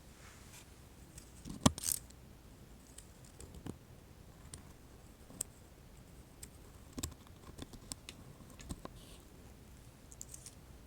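ASMR tongs clicking and tapping close to the microphone. The clicks are scattered and sharp, with the loudest two coming about two seconds in and a small cluster near the end.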